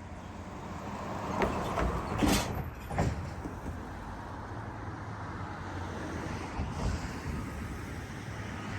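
Passing road traffic, a steady rumble with a few sharp knocks or clanks in the first three seconds.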